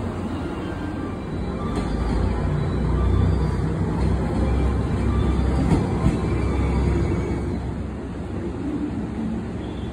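Electric trains at a station platform: a low, steady rumble that builds about three seconds in and eases off near the end, with a couple of sharp clicks.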